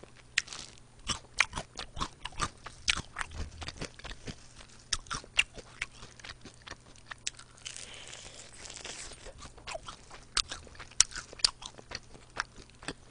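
Close-miked crunching and chewing of crispy fried chicken wings: irregular crisp crunches, about three a second.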